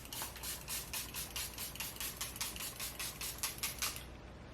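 Charlotte Tilbury makeup setting spray pumped over and over onto the face, a fast even run of short hissing spritzes, about six a second, which stops about four seconds in.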